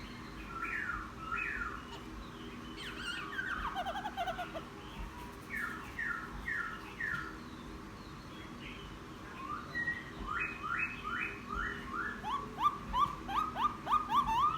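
Newly caught wild laughingthrush singing: short phrases of repeated downslurred whistled notes with pauses between them, turning into a louder, quicker run of notes over the last few seconds.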